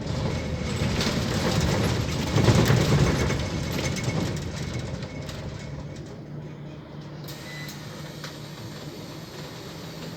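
Scania CL94UB city bus running: a loud rush of engine and road noise builds to a peak a couple of seconds in, then dies away to a steady low engine hum.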